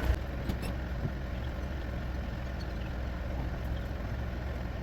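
A car engine idling steadily, with a few light clicks in the first second.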